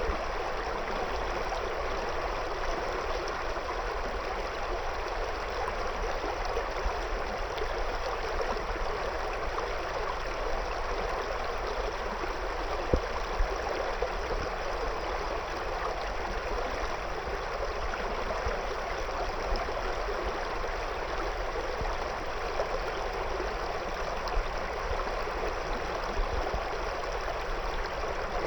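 Shallow river water flowing and splashing around stones, a steady rushing with small irregular splashes standing out now and then.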